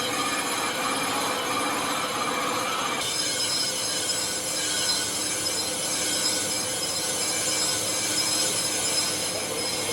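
Metalworking machinery running in a crankshaft factory: a steady, shrill metallic screeching and grinding made of many high tones. The sound changes abruptly about three seconds in.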